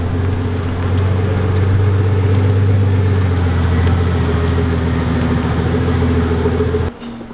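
Pagani V12 supercar engine running steadily at low revs as the car rolls slowly past, a deep even note. It cuts off abruptly near the end.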